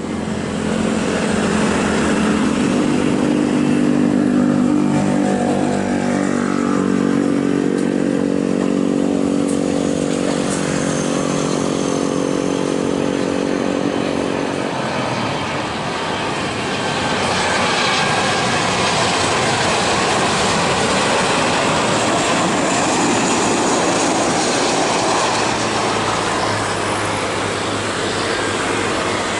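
Boeing 737-800 jet airliner's CFM56 turbofan engines passing close on landing. For the first half a steady layered engine whine dominates; about halfway through it gives way to a broad rushing roar that stays loud.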